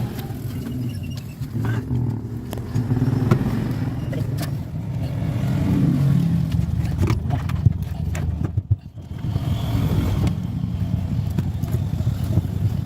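A motor running with a steady low hum, cutting out briefly about nine seconds in and then picking up again, with scattered light clicks.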